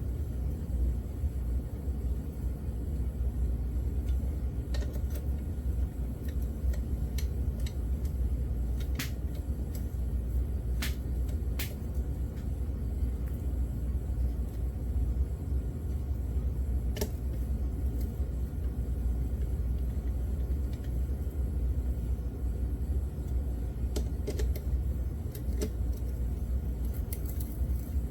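A steady low background rumble with scattered small metallic clicks, a dozen or so, as bolts are set by hand into an engine's side cover.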